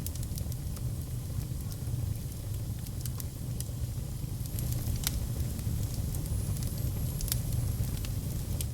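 Wood fire burning in a fireplace: a steady low rumble of flame with scattered sharp crackles and pops from the burning wood. The loudest pops come about five seconds in and again a little after seven seconds.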